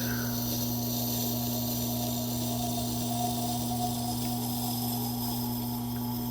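Tormek T8 water-cooled sharpener running with a steady motor hum, while a knife blade is drawn slowly along the turning wet grinding stone with a faint, even rubbing.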